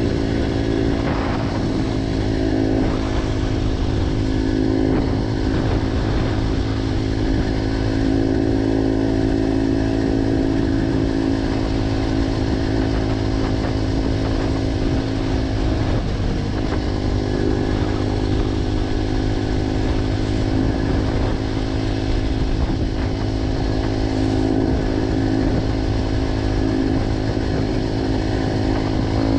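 Motorcycle engine with an aftermarket G.P.R. exhaust running at a fairly steady speed, its pitch drifting only slightly up and down.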